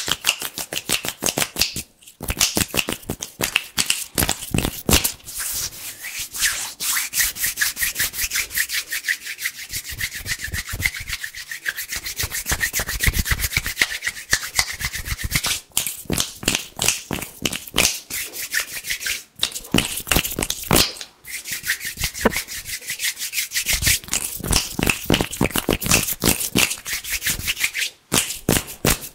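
Bare hands rubbing together fast, a dense crisp crackle of quick strokes with a few brief breaks.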